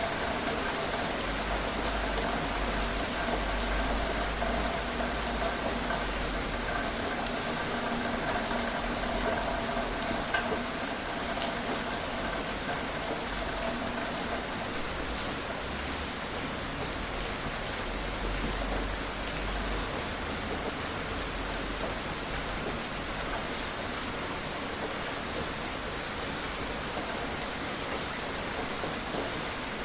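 Gentle rain falling steadily, an even hiss with scattered individual drops ticking.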